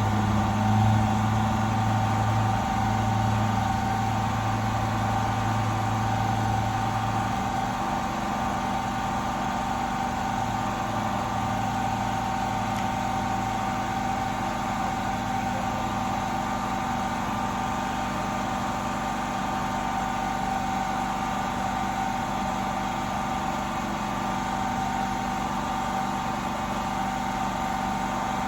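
A steady mechanical hum with a constant mid-pitched whine. A low drone underneath fades about seven seconds in.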